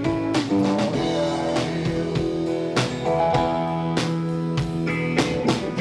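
Live country-rock band playing an instrumental stretch between sung lines, guitar to the fore over a steady beat.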